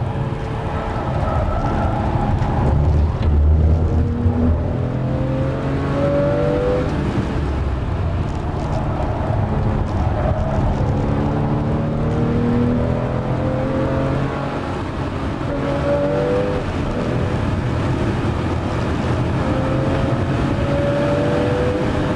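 Porsche 997 Carrera S flat-six engine heard from inside the cabin, pulling hard through the gears at speed. The pitch climbs, drops at each upshift, and climbs again several times.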